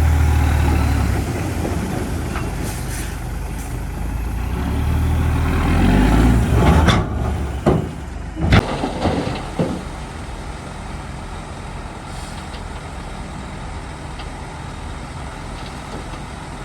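Heavy diesel earthmoving machinery running hard, with a deep engine rumble that builds for a few seconds. About seven to nine seconds in come several sharp clanks and knocks, then the engine settles to a steadier, quieter running.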